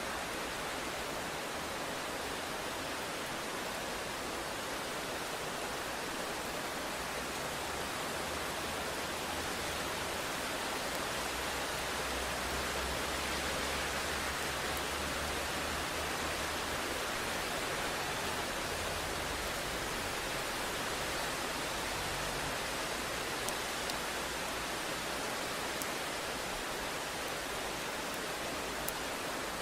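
Steady rain hiss, with a low rumble of distant thunder swelling and fading through the middle.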